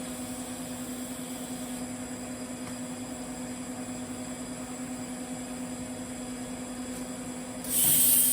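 TIG welding arc on a carbon-steel pipe, a steady even hum. Near the end a sudden loud hiss lasts under a second.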